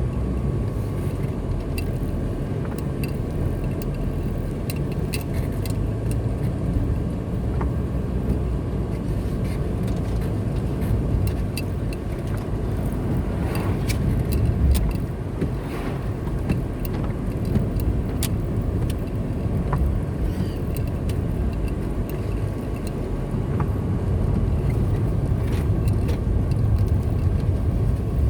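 Car driving on the road, heard from inside: a steady low rumble of tyres and engine, with scattered light ticks and clicks.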